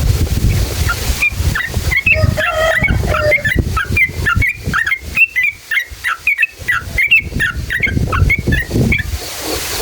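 Yellow-vented bulbul (trucukan) singing a long run of quick, bubbly chirping notes, with a low wind rumble on the microphone underneath.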